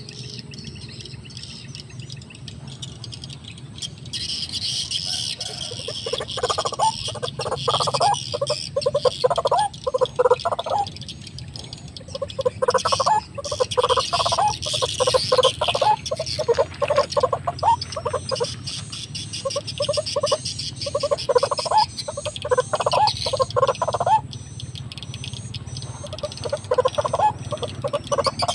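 White-breasted waterhen (ruak-ruak) calling: rapidly repeated call notes in runs of several seconds with short breaks, starting about six seconds in.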